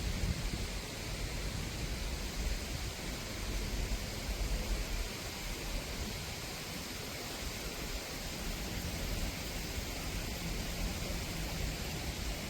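Wind buffeting the microphone, rumbling unevenly, over a steady outdoor hiss.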